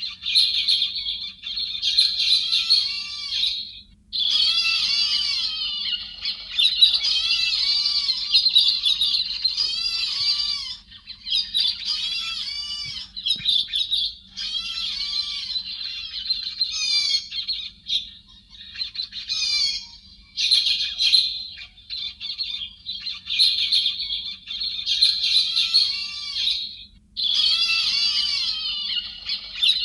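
Héc xoan birds calling in a dense, overlapping chatter of quick arching notes, in bursts of a few seconds with short pauses between. This is a cleaned-up recording used as a call to lure a flock to a trap.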